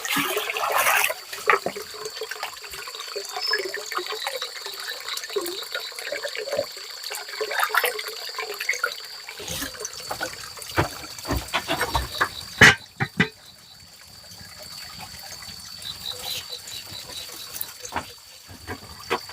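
Water splashing and trickling, with scattered knocks and clicks and a steady high-pitched tone in the background; a sharper knock stands out a little past the middle.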